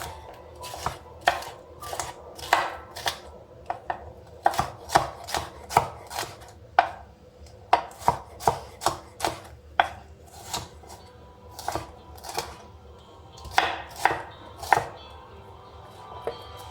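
Eating utensils tapping and scraping against dishware, a string of sharp irregular clicks about two a second, some with a short ringing tone.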